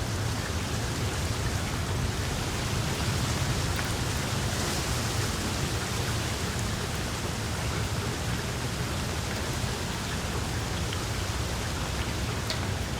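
Small wood fire in a fireplace, crackling steadily with a dense patter of little crackles and a sharper pop near the end.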